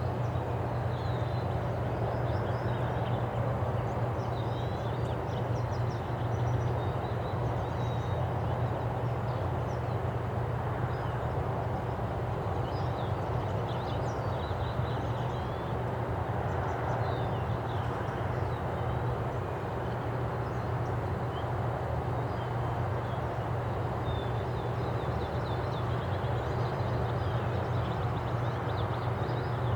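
Outdoor park ambience: a steady low hum underneath, with small birds chirping and calling in short, scattered notes.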